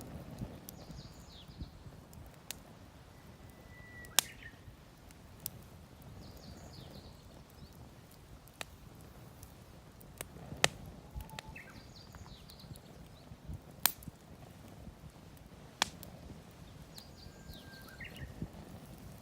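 Wood fire of damp, poorly dried firewood in a mesh fire stand, crackling with sharp pops every second or two, a few of them loud. A bird repeats a short high chirping call four times in the background.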